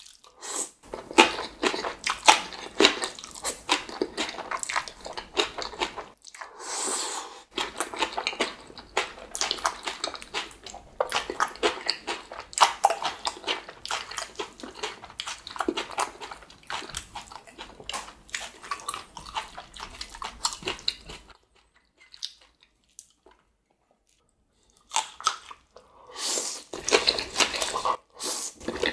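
Close-miked eating: a mouth biting and chewing black bean sauce noodles and spicy green-onion kimchi, with a dense run of wet clicks and crunches. The eating sounds stop for a few seconds about two-thirds of the way through, then start again.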